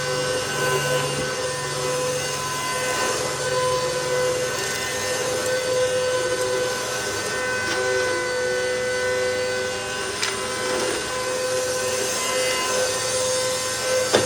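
Hoover MaxLife Total Home Pet upright vacuum cleaner running steadily, its motor giving a constant whine over a rushing airflow. There are two short sharp ticks past the middle.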